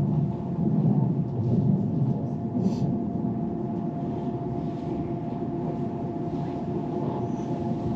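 Rhaetian Railway Bernina Express train running, heard inside the passenger car: a steady rumble with a constant humming tone, and one brief high squeak about two and a half seconds in.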